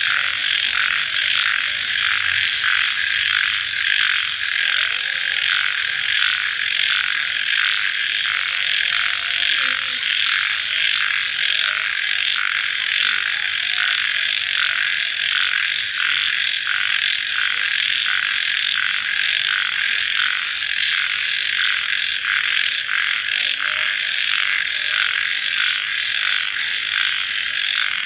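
Dense chorus of crickets chirping at night, a steady, fast pulsing trill that never lets up.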